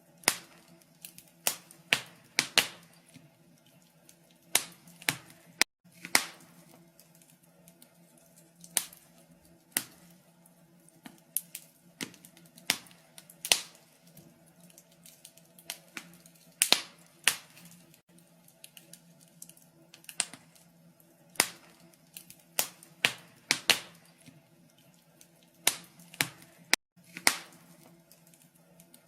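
Wood fire crackling, with sharp irregular pops and snaps from the burning logs over a faint steady low hum.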